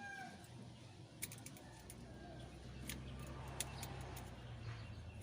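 Scattered faint clicks and taps of hand tools on metal, as work goes on at the engine's number one cylinder, over a low steady hum that comes in about two seconds in.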